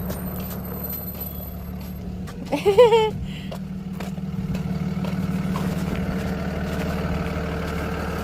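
Bus engine idling steadily, a low hum that grows slightly louder after the first few seconds. About two and a half seconds in, a brief high, wavering cry cuts across it.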